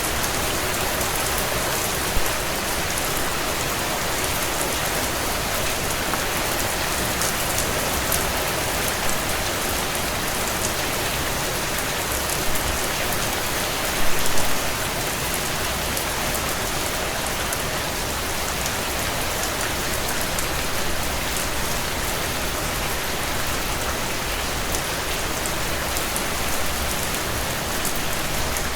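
Steady heavy rain on window glass, an even hiss, with scattered crackles and pops from a wood fire burning in a stone fireplace; a short cluster of louder pops comes about halfway through.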